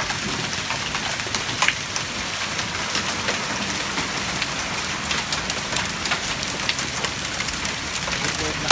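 Quarter-size hail pelting down with rain: a steady dense hiss of falling precipitation broken by many sharp individual impacts of hailstones. A louder crack comes about a second and a half in and another near the end.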